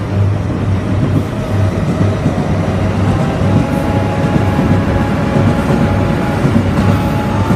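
Electric trains running through a station yard: a steady low rumble pulsing about twice a second, with faint tones that step upward in pitch.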